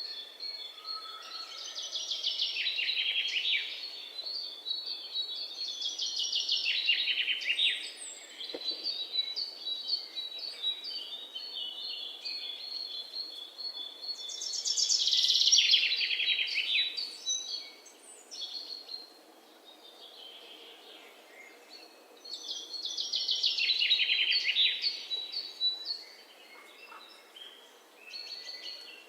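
Songbirds singing: bursts of rapid, trilled chirping phrases a few seconds long that come and go, loudest twice in the second half, over a steady faint background hiss.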